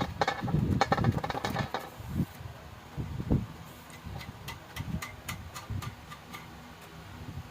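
A quick run of clicks and knocks over a low rumble for the first couple of seconds, then scattered sharp clicks and a few dull knocks.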